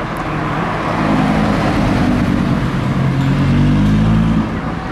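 Audi R8 V10's 5.2-litre V10 engine driving past and pulling away. Its note grows louder from about a second in, then drops sharply near the end.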